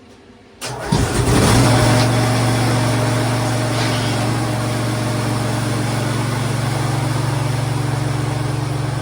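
Engine cranking briefly and catching about a second in, then idling steadily.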